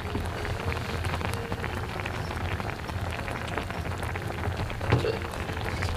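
Food sizzling and crackling in a hot pan on a camp stove, a steady spitting patter over a low burner hum, with one louder pop about five seconds in.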